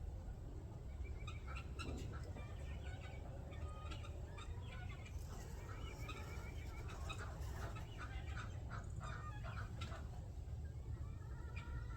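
A flock of chickens clucking, with many short overlapping calls throughout, over a steady low rumble.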